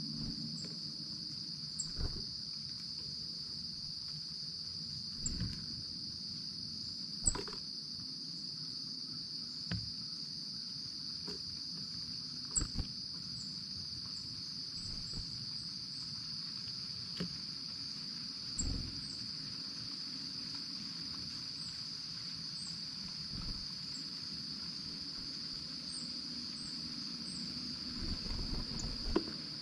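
Insects trilling in one steady, unbroken high-pitched chorus, with a dozen or so short knocks and taps scattered through it, the sharpest about seven seconds in.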